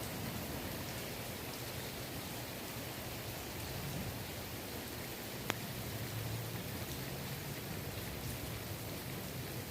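Steady rain falling on a swimming pool, an even hiss of drops on the water, with one sharper single drop tick about five and a half seconds in.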